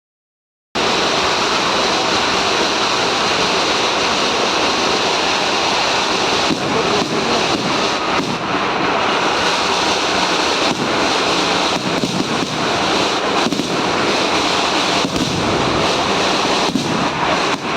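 Fireworks barrage: a dense run of rapid firecracker explosions blending into one loud, continuous crackling noise, starting just under a second in, with sharper individual bangs standing out from about six seconds on.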